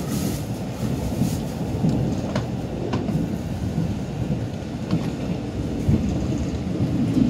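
Low, steady rumble of a Mugunghwa passenger train running along the track, heard from inside the carriage, with a few faint clicks now and then.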